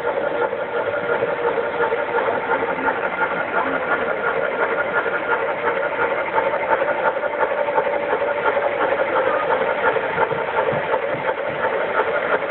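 Model trains running: a steady motor whine with rapid clicking from the wheels on the track.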